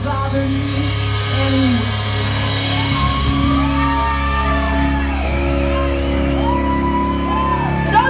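Live metal band playing: a steady low bass under a long-held, gliding melody line, with some shouting mixed in.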